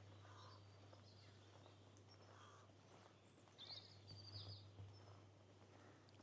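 Faint birdsong: small birds chirping and calling, with a clearer run of quick high notes in the middle, over a low steady hum.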